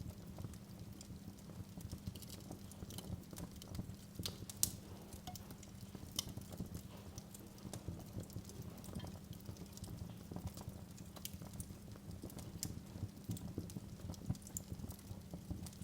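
Wood fire burning in a fireplace: a low steady rumble of flames with irregular crackles and small pops, the sharpest pop about four and a half seconds in.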